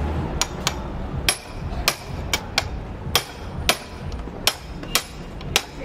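A hammer striking a metal tool, about a dozen sharp blows at an uneven pace of roughly two a second, during work on a motorcycle clutch.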